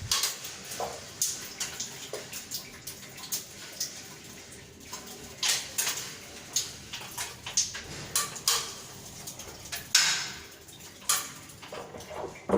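Irregular metallic clinks, knocks and scrapes of hard objects being handled, spaced unevenly a fraction of a second to a second or so apart.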